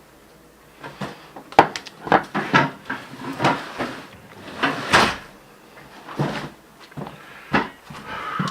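Irregular knocks, clicks and clatter of things being handled and shut in a kitchen, with the sharpest knocks about a second and a half in and about five seconds in.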